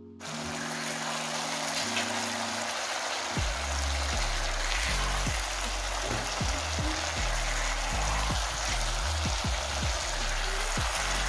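Chicken woku in its spice paste sizzling in a pan, a steady hiss that starts suddenly, over background music with a bass line.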